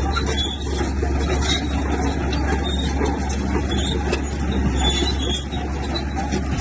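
Bulldozer's diesel engine running steadily with a strong low hum, with scattered short metallic clicks over it.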